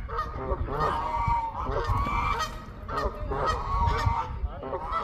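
A flock of geese honking, many short calls overlapping one another again and again.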